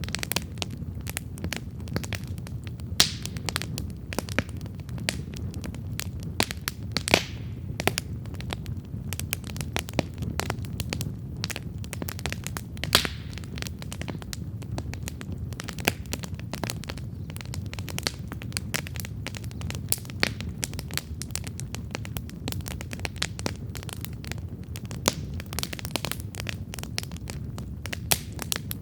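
Wood campfire burning with a steady low rush of flame and continual irregular crackling, a few sharper pops standing out.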